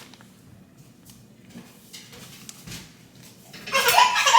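Baby starts fussing and crying near the end, a high wavering wail, after a quiet stretch with a few faint clicks.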